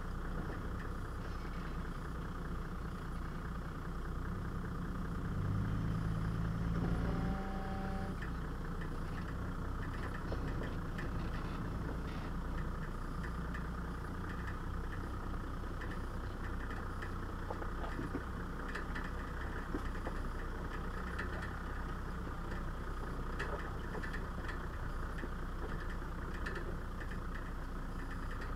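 Off-road 4x4's engine running at low revs while crawling over a rocky track, revving up briefly about five to seven seconds in. Scattered knocks and rattles come in the second half.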